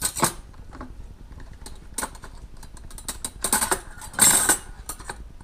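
Cutlery rattling and clinking as a fork is fetched, in a few irregular clusters of clicks and short scraping rattles, the loudest about four seconds in.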